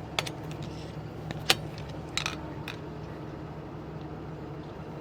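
Steady low drone of a vehicle engine running, with a few sharp clicks and knocks in the first half, the loudest about a second and a half in.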